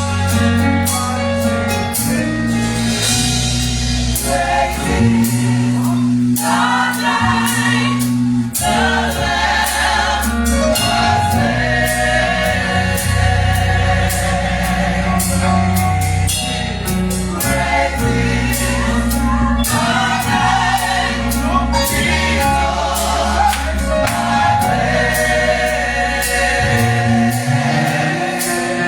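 Live gospel music: a choir singing over a band, with sustained low bass notes and a steady beat.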